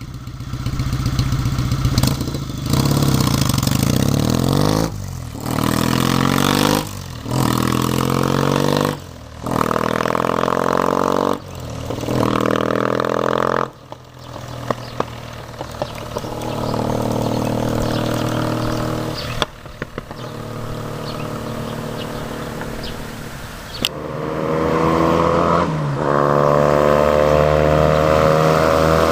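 Kawasaki W800's air-cooled parallel-twin engine breathing through an all-stainless full exhaust system, accelerating through the gears: the pitch climbs and drops back at each shift. About halfway in it settles to a steadier, quieter run, then picks up again near the end.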